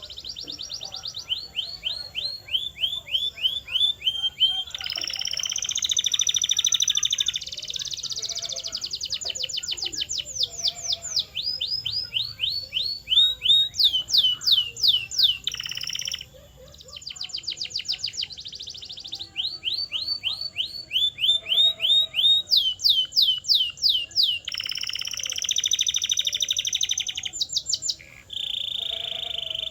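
Canary singing a long, continuous song. It is built from runs of quickly repeated down-sweeping whistled notes, several a second, alternating with fast buzzing rolls, and the song keeps switching from one phrase to the next.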